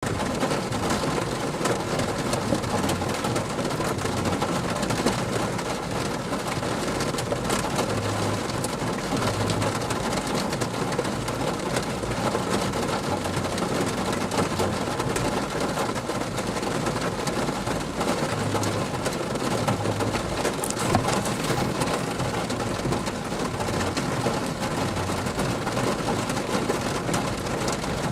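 Steady rain falling on surfaces, a continuous dense hiss of many fine drop impacts that holds an even level throughout.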